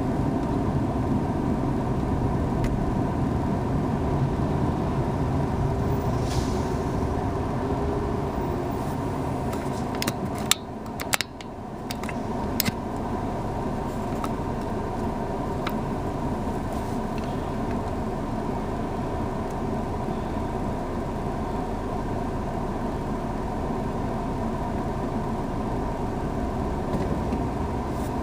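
Car driving noise recorded by a dash cam: a steady rumble of engine and road. About ten seconds in there is a brief drop with a few sharp clicks.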